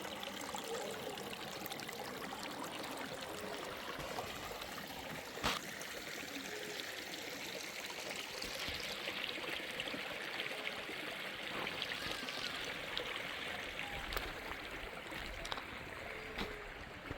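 Water running steadily, like a small stream or trickle, with a single sharp knock about five seconds in.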